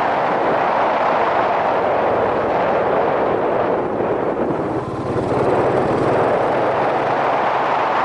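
Yamaha SRX400's single-cylinder four-stroke engine running under way, heard through a helmet-mounted camera with heavy wind rush. About halfway through the sound briefly drops off, as the throttle eases, then picks up again.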